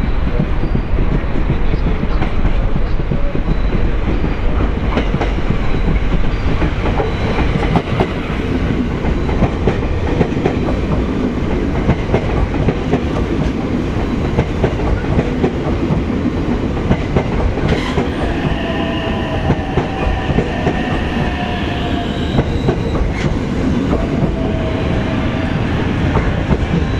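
JR West 287-series electric express train running along the station platform, with rumble and the clickety-clack of its wheels over the rail joints. A sharp click comes about two-thirds of the way through, followed for several seconds by a high-pitched squeal.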